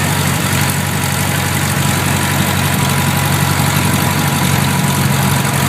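1967 Cessna 150's four-cylinder air-cooled Continental O-200 engine and propeller running steadily at low taxi power.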